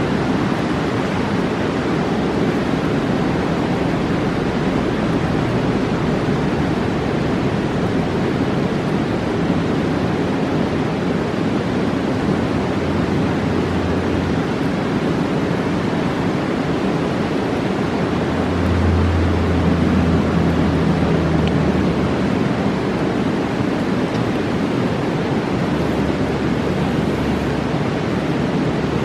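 Fast mountain river rushing steadily, a continuous wash of water noise; a deeper rumble swells for a few seconds past the middle and briefly again near the end.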